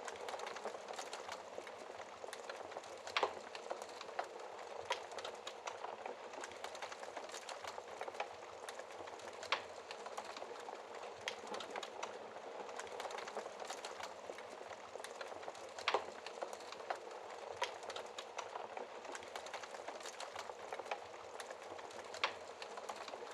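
Wood logs burning in a fireplace: a steady dense crackle, with louder sharp pops about every six seconds.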